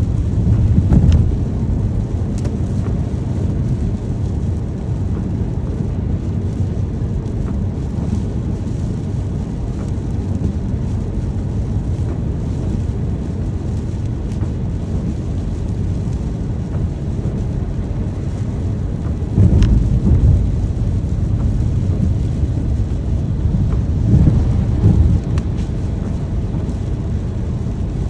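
Steady rainstorm noise dominated by a deep low rumble, swelling louder about twenty seconds in and again near twenty-five seconds.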